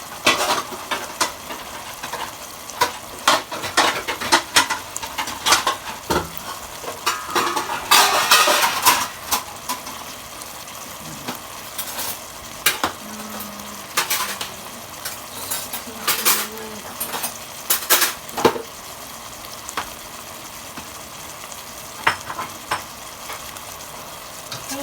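Chicken adobo sizzling in a pot as its sauce reduces and thickens, with a utensil clinking and scraping against the pot while it is stirred. The clinks come often in the first half and less often later.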